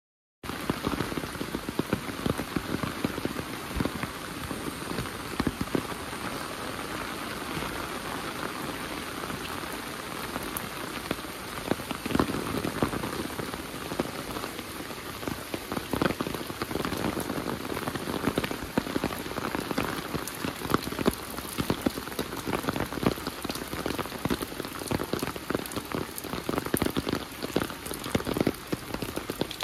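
Heavy rain falling steadily, with many sharp, close drop hits among the even hiss. It starts abruptly out of silence about half a second in.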